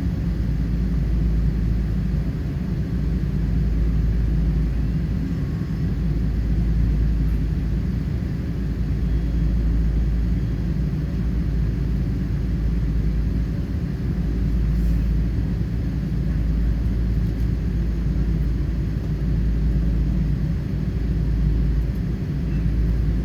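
Steady low rumble of a Boeing 777-300's engines and airflow, heard from inside the passenger cabin.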